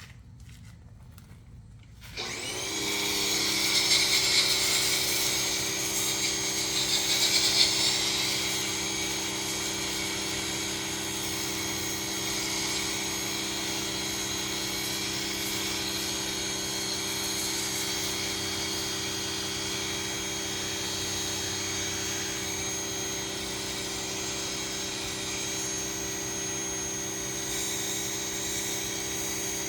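Ryobi 2000 psi pressure washer starting up abruptly about two seconds in and running steadily with a hissing water spray, loudest for the first few seconds after it starts.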